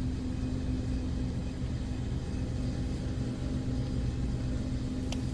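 Steady low mechanical hum with a faint steady tone running through it: the background drone of a convenience store's equipment. A faint click near the end.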